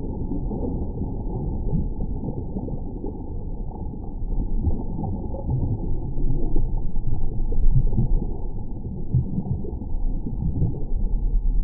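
Strong wind buffeting the microphone: an uneven low rumble that swells louder about six to eight seconds in.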